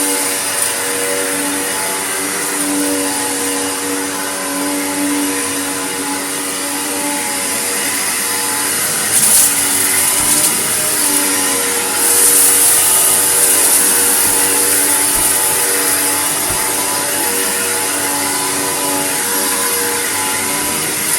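Vacuum cleaner running continuously, a steady motor hum under a high rushing hiss of suction. The hiss grows louder briefly about nine seconds in and again from about twelve seconds on.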